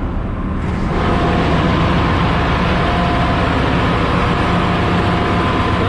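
Loud, steady machinery noise of a ship's engine room: a dense hiss with steady hum tones. It jumps up sharply about a second in and then holds level.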